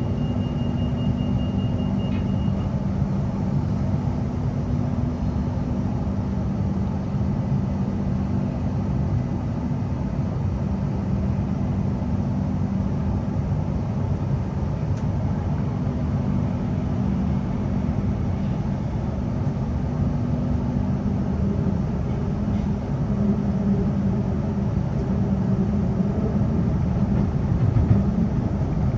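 Steady rumble and low hum inside a Queensland Rail NGR electric train as it pulls away and runs between stations. A pulsed, high door-closing warning beep sounds for the first couple of seconds.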